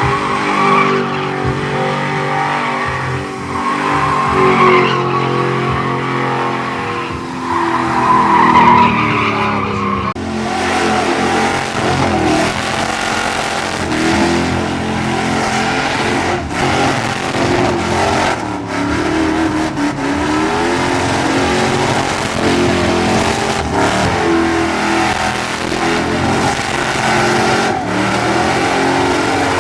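Truck engines revving hard with tyres squealing and skidding in burnouts, the pitch rising and falling with the throttle. The sound changes abruptly about a third of the way through.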